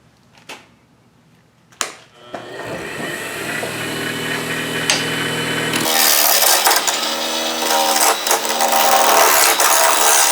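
Wen mini lathe started after a click about two seconds in, its motor humming as it comes up to speed; from about six seconds in a turning chisel cuts into the spinning wood with a loud, rough scraping.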